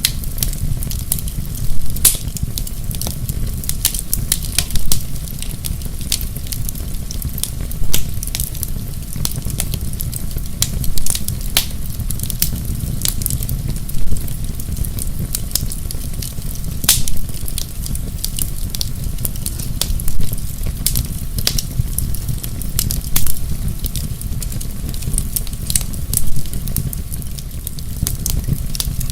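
Wood fire in a fireplace crackling: a steady low rumble with many small sharp snaps, and a louder pop about every three seconds.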